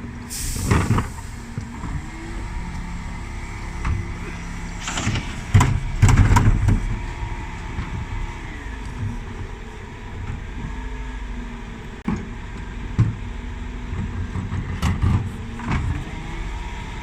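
Dennis Elite 6 refuse truck running, its engine pitch rising and falling at times. Over it come a loud bang about a second in, a cluster of loud bangs and clatter around five to six seconds in, and a few more bangs later, as wheelie bins are lifted and emptied.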